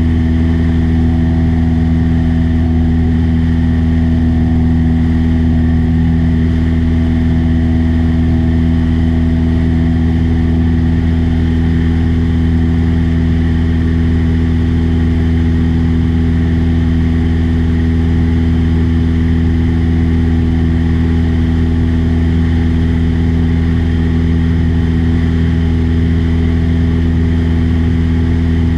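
Small aircraft's piston engine and propeller droning steadily at an unchanging pitch, loud and even throughout.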